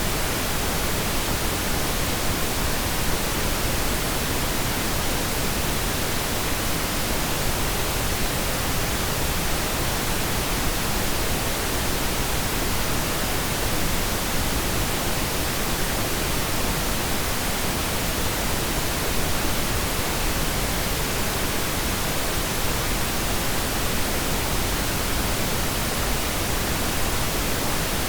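Steady pink noise: an even, unchanging hiss spread across the whole range, with no separate drops, knocks or tones.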